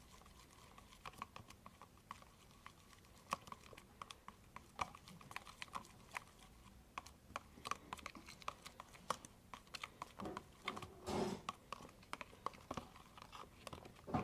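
Irregular light clicks and taps, several a second, from small hard objects being handled, with a couple of louder, longer rustling bursts about ten and eleven seconds in.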